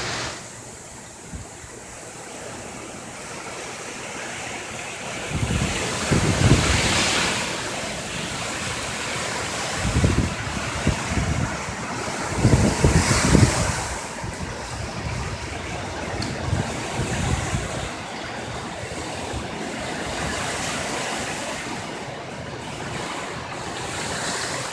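Tropical-storm-force wind gusting, with surges about five, ten and thirteen seconds in, and gusts buffeting the microphone with a low rumble.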